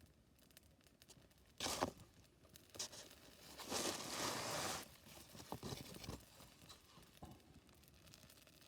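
A few bursts of rustling or scraping, the longest lasting about a second near the middle, with several light knocks after it.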